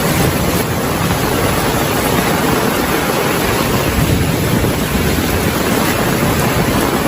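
Heavy rain falling: a steady, dense hiss with a low rumble underneath.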